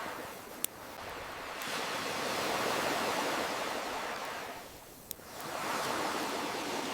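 Ocean waves washing in and drawing back, the rush swelling and fading, with two sharp pops of a crackling campfire, one near the start and one about five seconds in.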